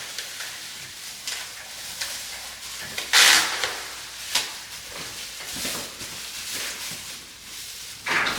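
Plastic sheeting being handled, rustling and crinkling in short bursts, with one louder crinkle about three seconds in and another near the end.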